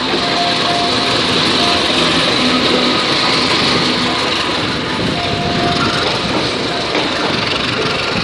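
CC 201 diesel-electric locomotive passing close by at a station platform, its engine running. The wheels of the passenger coaches that follow run on the rails, and the sound eases slightly about five seconds in as the coaches replace the locomotive.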